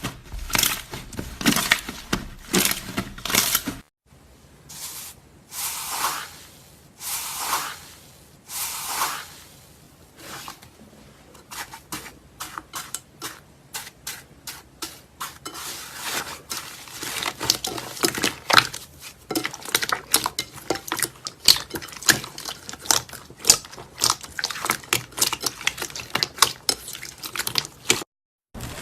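Slime being squished and worked by hand, with wet squishing swells and then dense, fast crackling pops. The sound cuts to silence twice, about four seconds in and near the end.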